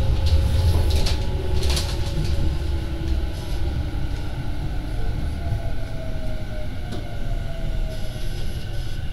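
Tobu 50070 series electric commuter train running, heard from inside a car: a low rumble of wheels on rail under a faint motor whine that slowly falls in pitch as the train slows. A brief hiss comes about a second and a half in.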